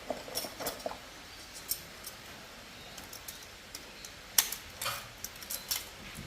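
Light metallic clinks and clicks, irregular and scattered, with a few close together near the start and the sharpest about four and a half seconds in: small metal parts and tools being handled during motorcycle wheel-bearing work.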